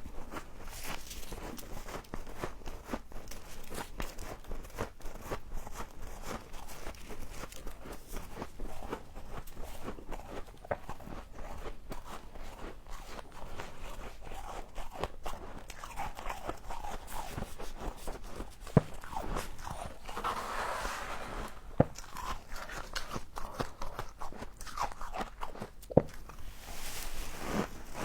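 A person biting and chewing frost close to the microphone: a continuous run of small, irregular crunches with a few sharper snaps.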